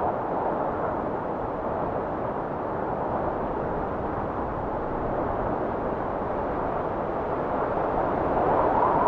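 Blizzard wind blowing steadily, swelling into a louder gust near the end.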